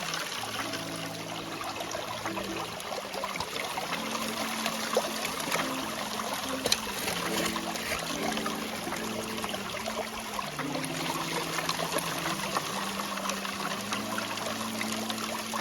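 Water running and trickling steadily, with small splashes and clicks. Soft background music with low held notes that change pitch plays underneath.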